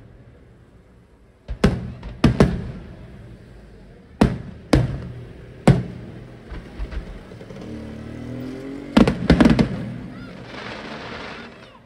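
Aerial firework shells bursting overhead: about ten sharp booms in irregular clusters, each trailing off in a fading echo. Near the end comes a spell of dense crackling from crackle-star bursts.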